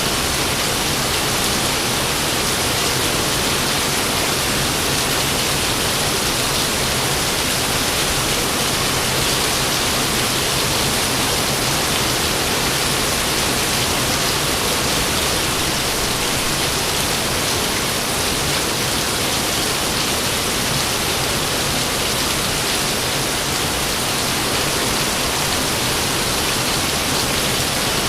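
Steady rain falling in an even, unbroken hiss, with no thunder.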